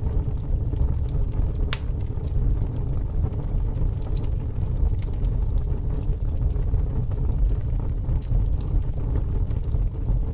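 Fire burning: a steady low rumble with scattered sharp crackles, one louder crackle about two seconds in.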